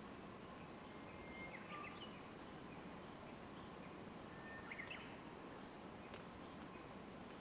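Wild birds calling in woodland: short chirps about two seconds in and again near five seconds, over a faint steady outdoor hiss.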